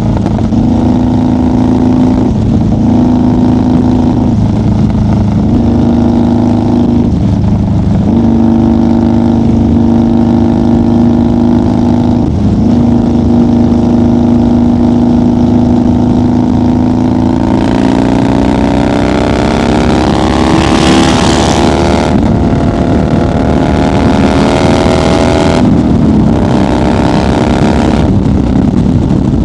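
1990 Harley-Davidson FXR's Evolution V-twin running at highway cruise, its steady note dipping briefly a few times. About two-thirds of the way through, the engine pitch climbs steadily for several seconds as it accelerates, with wind rush rising over it, then it eases off near the end.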